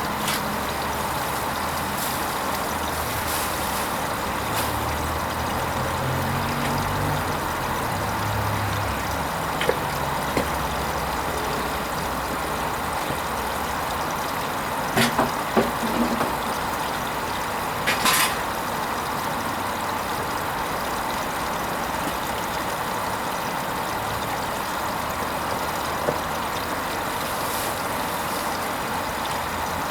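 Hoover Vision HVP16 washing machine running its Silks 30 cycle: a steady rush of water, with the drum motor humming in short spells and a few sharp clicks and knocks.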